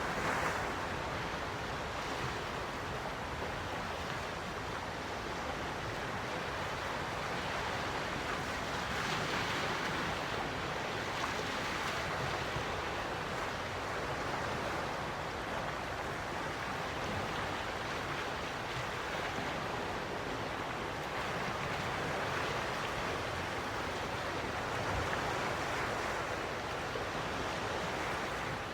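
Gentle ocean waves washing onto a shore, a steady hiss of surf that swells softly every few seconds.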